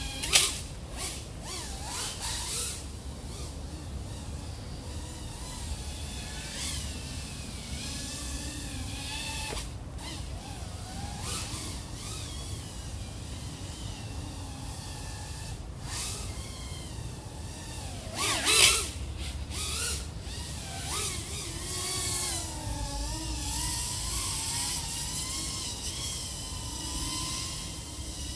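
iFlight AOS 3.5 V5 FPV quadcopter's four XING 1504 3100KV brushless motors and propellers whining in flight, the pitch wavering up and down with throttle, over a rushing wind noise. Two brief loud surges stand out, about half a second in and again about 18 seconds in.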